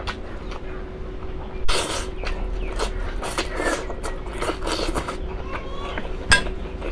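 Close-miked eating sounds: a person chewing and smacking, with scattered mouth clicks and two sharper smacks, one a little under two seconds in and one near the end. A faint steady hum lies underneath.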